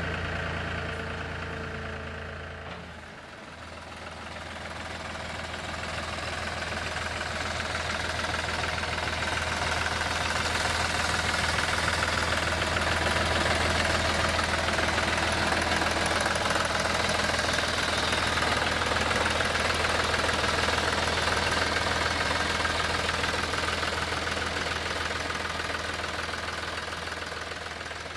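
John Deere 5103 tractor's three-cylinder diesel engine running steadily. It grows louder after a dip about three seconds in, is loudest in the middle, and fades near the end.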